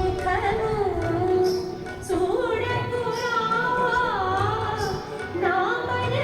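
A woman singing an Indian classical-style melody with ornamented glides between notes, over a recurring low drum beat.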